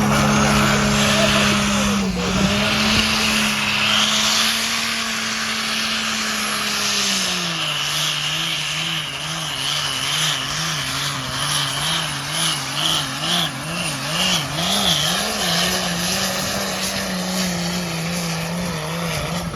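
Pulling tractor's engine running hard at high revs under load. About seven seconds in its pitch drops, then it wavers quickly up and down several times before settling steady again.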